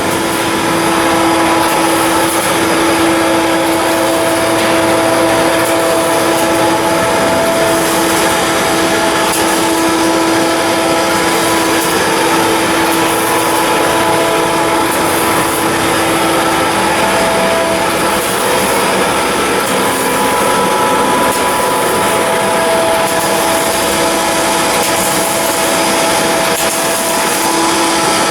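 Shipyard machinery running steadily: a loud, even noise with a constant hum that comes and goes slightly in strength.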